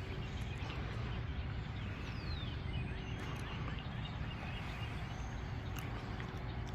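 Steady outdoor background noise with a low rumble and a few faint bird chirps, one of them a falling chirp about two seconds in.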